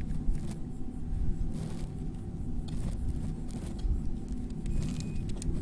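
A steady low rumble, with a short high electronic beep near the end: a fish finder's shallow-water alarm.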